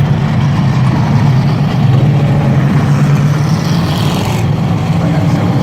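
Stock car engines running on a race track, a steady loud engine drone.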